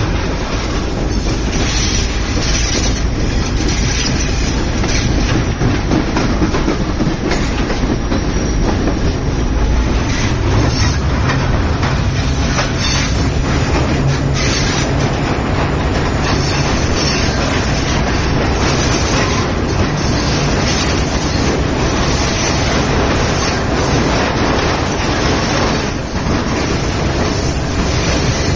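Passenger train running steadily: a continuous loud rumble of wheels on rail, broken by frequent clattering knocks.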